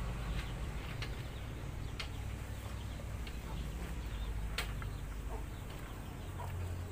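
Faint short bird calls over a low steady rumble, with a few scattered short clicks.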